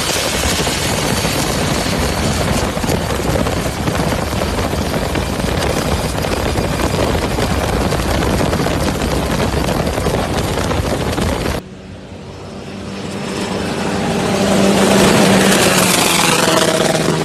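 Speedboat engine running flat out, a loud dense rush of engine and wind noise. About 12 s in it cuts off abruptly, and another engine hum comes up and grows steadily louder as it approaches.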